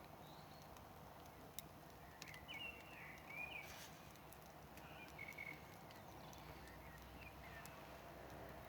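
Faint crackling of a wood campfire, with a few sharp pops. Birds chirp briefly several times in the background.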